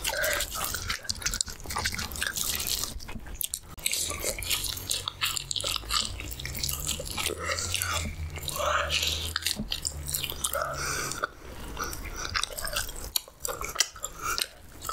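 Close-up chewing of puri, halwa and chickpea gravy, with many quick mouth clicks. A low steady hum runs under the chewing through the middle.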